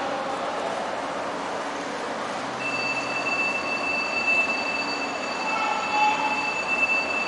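Laos-China Railway electric passenger train at the platform: a steady hiss and rumble, joined about two and a half seconds in by a steady high-pitched whine with fainter higher overtones.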